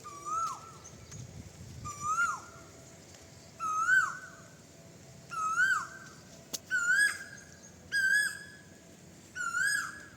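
An animal calling over and over: a short note that rises and then drops, about once every one and a half seconds, seven times, slightly louder in the middle calls.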